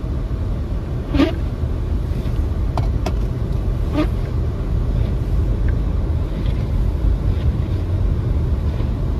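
Steady low rumble of a car's engine and tyres heard inside the cabin while driving on snow-covered roads, with a few brief short noises.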